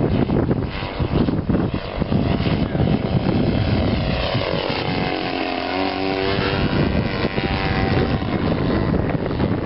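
Giant-scale RC Extra 330L model airplane's engine and propeller droning in flight, the note growing stronger and shifting in pitch about halfway through as the plane passes. Wind noise buffets the microphone throughout.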